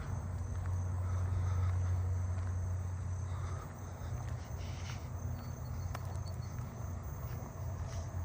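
Crickets trilling as a faint, steady, high-pitched chorus over a louder steady low hum.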